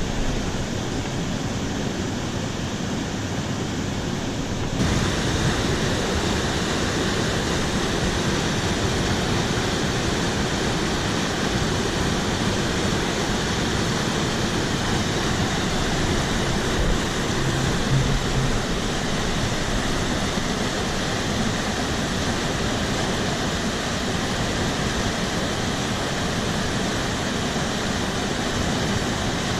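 Rushing water of a monsoon-flooded mountain stream, a loud, steady roar that gets louder and brighter about five seconds in.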